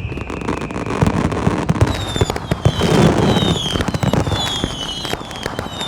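Fireworks going off in quick succession: a dense run of bangs and crackles over a low rumble, with a string of short falling whistles starting about two seconds in.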